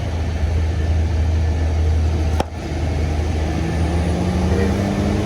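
Road vehicle engine running with a steady low rumble; a sharp click about halfway through, then the engine note climbs as it accelerates near the end.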